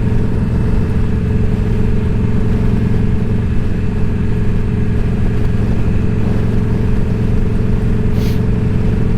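Indian Scout Bobber's V-twin engine running steadily at an even cruising speed, its pitch holding level throughout.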